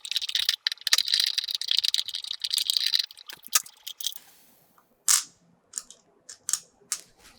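Allen-head screwdriver backing out small screws from a drone's plastic body: rapid clicking and scraping for about three seconds, then a few scattered clicks and taps.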